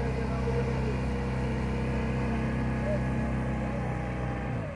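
A passing boat's engine running steadily, a low hum that cuts off abruptly near the end.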